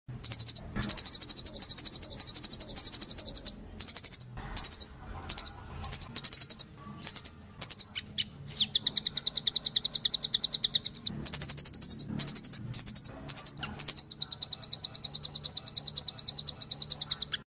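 Blue nuthatch (rambatan doraemon) calling in fast, high-pitched trills of rapidly repeated notes. The trills come in long runs broken by short pauses, with a single falling note partway through.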